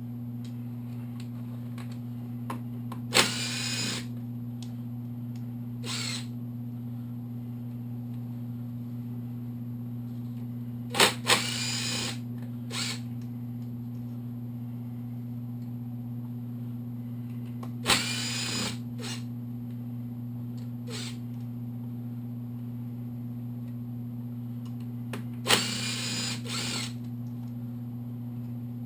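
Cordless power driver spinning in four short bursts of about a second each, each opening with a click and a rising whine, as it backs bolts out of the clutch side of a motorcycle engine. A steady low hum runs underneath.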